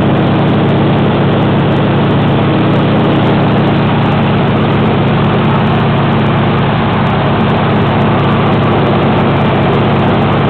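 Warbird's radial piston engine and propeller running steadily at high power, a loud even drone heard from inside the aircraft.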